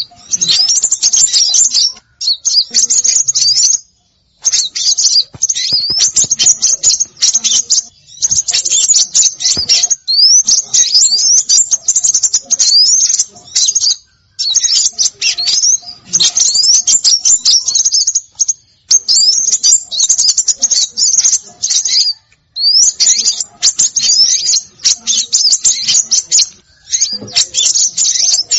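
Recorded calls of small songbirds used as a bird-trapping lure: dense, high-pitched chirping and rapid trills with quick rising whistles, broken by brief pauses every few seconds.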